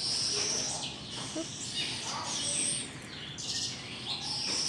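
Birds chirping and calling: repeated high whistled notes and short glides, some overlapping.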